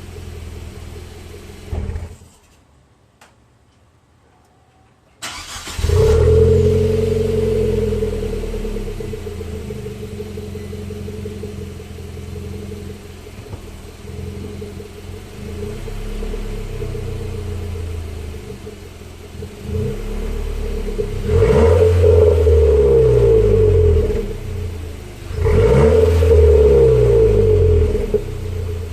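Nissan Sentra SR Turbo's 1.6-litre turbocharged four-cylinder, running through a 2JR midpipe exhaust, stops about two seconds in and is started again about five seconds in, catching with a flare of revs. It then settles to a steady idle and is revved twice near the end, pitch rising and falling each time.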